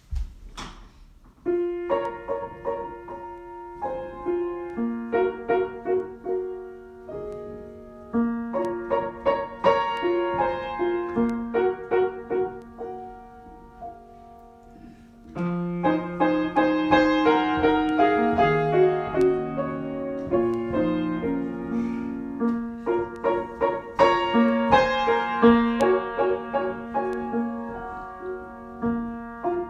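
Solo piano improvisation: chords and melody notes struck and left to ring, with deeper bass notes joining about halfway through and the playing growing fuller.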